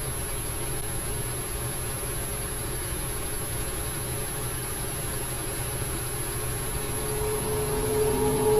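A steady low rumbling noise with a hiss above it; near the end a sustained humming tone fades in and grows louder.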